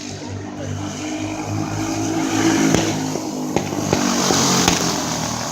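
Racing go-kart engines running on the track, growing louder as karts come closer, with a few sharp clicks or knocks partway through.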